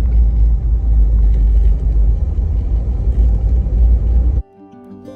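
Low, steady road and engine rumble of a Jeep heard from inside the cabin while driving. It cuts off suddenly about four seconds in, and quiet acoustic guitar music begins.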